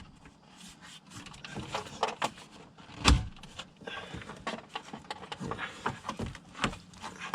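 Irregular clicks and knocks of hard plastic parts being handled and fitted around a car's radiator and fan shroud, with one loud knock about three seconds in.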